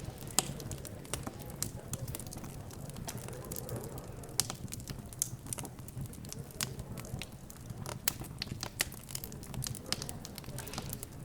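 Fireplace crackling: irregular sharp pops and snaps, several a second, over a low steady hum.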